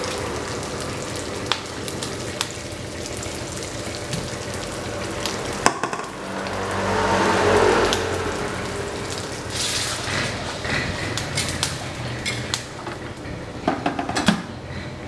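Steady sizzling of food frying in a wok over a charcoal stove, with a few sharp clinks of a ladle and utensils against metal pots, several of them close together near the end.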